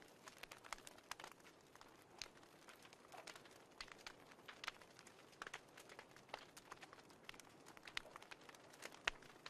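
Faint fireplace crackling: irregular sharp pops and snaps over a soft hiss, the loudest snap near the end.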